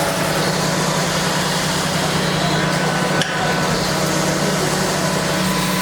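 Steady machine hum with workshop noise, and a single sharp knock a little over three seconds in.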